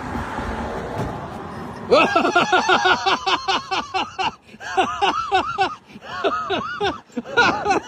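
A rushing noise for about two seconds, then a high-pitched voice in rapid, short rising-and-falling cries that keep going.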